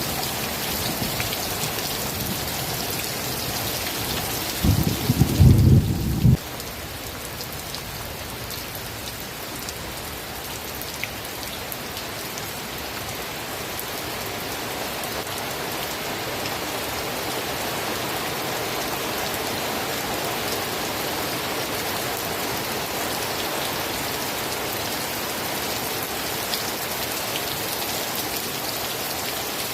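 Steady rain falling, with a loud, low roll of thunder about four and a half seconds in that lasts under two seconds and cuts off suddenly.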